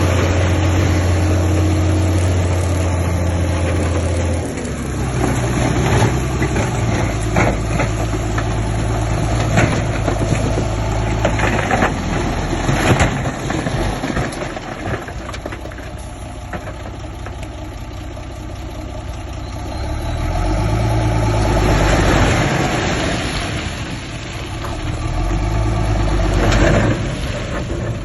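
Heavy diesel engines of a bulldozer and dump trucks running, their engine speed rising and falling several times, with scattered clanks and knocks of metal and rock.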